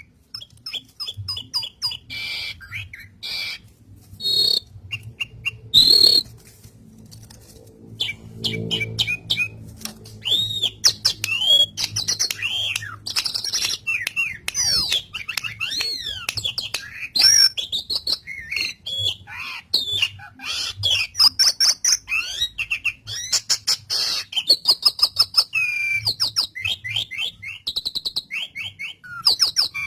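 Pied starling (jalak suren) singing continuously. The song is a varied run of whistles, rising and falling glides and fast rattling strings of short notes, with a brief pause about seven seconds in.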